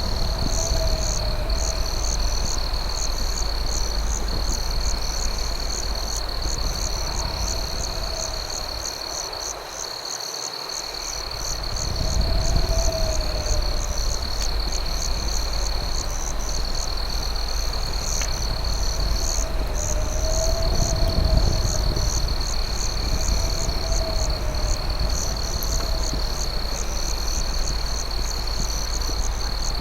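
Crickets chirping at night: a steady high trill with a faster pulsed chirping above it, over a low rumbling noise that thins out briefly about ten seconds in.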